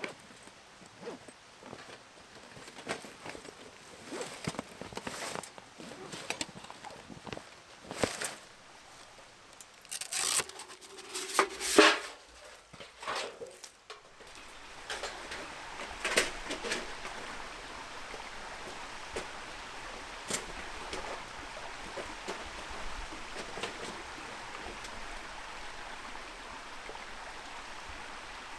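Scattered knocks and clicks of handling or footsteps, loudest about two-thirds of the way through the first half, then from about halfway a steady rushing of flowing water, like a mountain stream.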